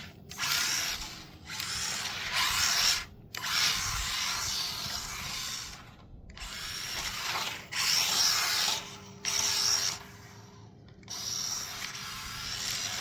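Maverick Microbe 1/24-scale brushed RC short course truck driving and drifting on concrete: bursts of small electric motor noise and tyres scrubbing, starting and stopping every second or two.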